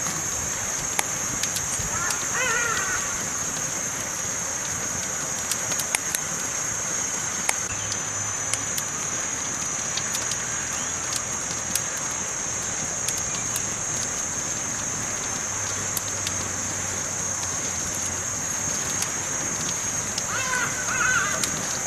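Wood campfire crackling, with frequent small sharp pops over a steady hiss. A brief wavering call-like sound comes about two seconds in and again near the end.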